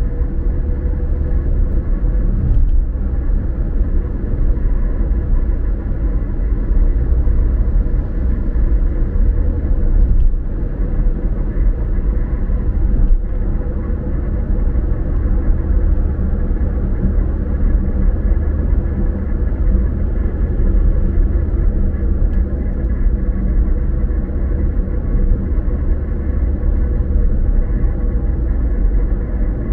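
Car driving, heard from inside the cabin: a steady, deep road-and-engine rumble with tyre noise, and a few light bumps along the way.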